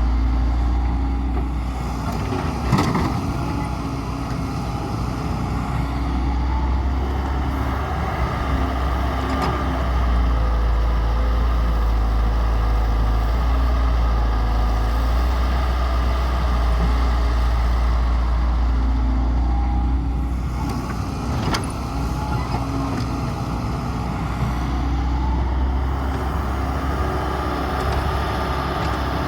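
Diesel engine of a Hyundai 113W wheeled excavator running under changing load while digging and loading mud, its pitch rising and falling through the work cycles. Two sharp knocks, at about three seconds and about twenty-one seconds, stand out from the engine.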